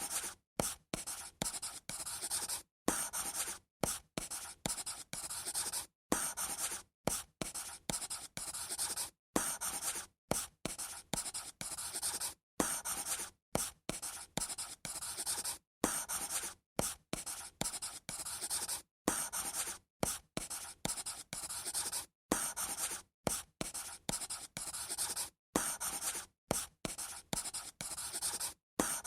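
Pen scratching across paper in a long run of short drawing strokes, each under a second, with brief silent gaps where the pen lifts between them.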